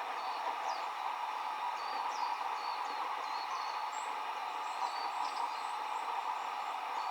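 Steady rush of flowing water at a mountain waterside, with small songbirds giving short, thin, high call notes scattered throughout, about a dozen in all.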